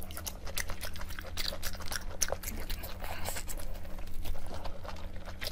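Close-miked chewing, a person eating with irregular wet mouth clicks and smacks, over a steady low hum.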